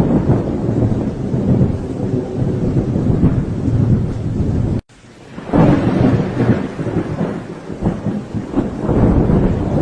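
Thunder rolling and rumbling over steady rain. About halfway through, the sound cuts out abruptly for a moment and then swells back up into another long rumble.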